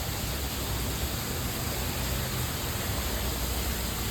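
Steady rush of water from a pond's water feature, an even hiss with a low rumble underneath.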